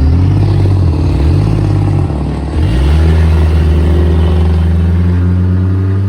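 Pit bike engine running hard close to the microphone, loud, starting abruptly; its pitch dips twice in the first few seconds and then holds steady.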